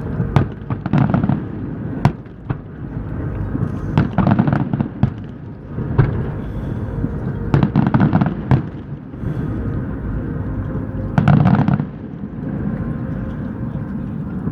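Fireworks display: aerial shells bursting in a dozen or so sharp booms at irregular spacing, some in quick runs with crackling, the busiest cluster about eleven seconds in. A steady low rumble lies underneath.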